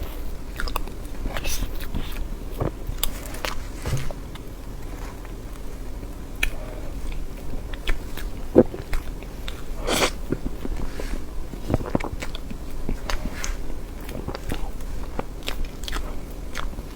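A person chewing and biting soft cream cake, with many short, irregular wet mouth clicks and smacks.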